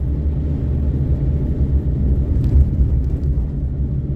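Suzuki Karimun Kotak engine running steadily under load in third gear while climbing a long hill at about 40 km/h, a continuous low drone with road rumble.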